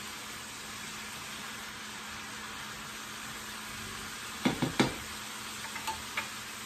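Broccoli and beef sizzling steadily in a hot skillet as they are stirred, with a few sharp clacks of the utensils about four and a half seconds in and a couple of lighter ones near the end.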